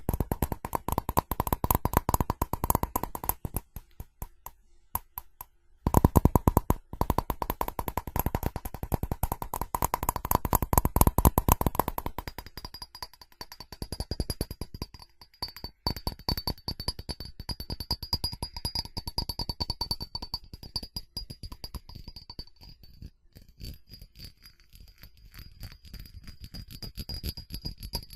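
Rapid fast tapping on ceramic, the taps setting the ceramic ringing with a clear pitch. It eases off briefly about four seconds in. From about halfway the taps grow lighter and a higher ringing pitch sounds under them.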